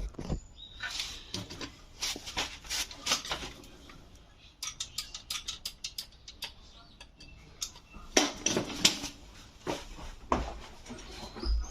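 Irregular light clicks, taps and clatter of small objects being handled and set down, coming in short clusters.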